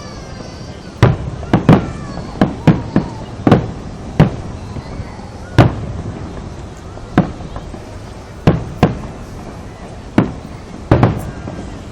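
Fireworks display: aerial shells bursting one after another as sharp booms at uneven intervals, more than a dozen in all, sometimes two or three within a second, each with a short rumbling tail.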